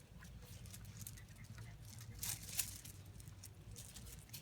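Faint, scattered scratching and tapping of puppies' paws and claws, with two louder scrapes about two and a half seconds in.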